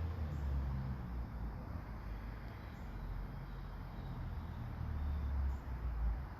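Outdoor ambience in light rain: a low, uneven rumble under a steady faint hiss.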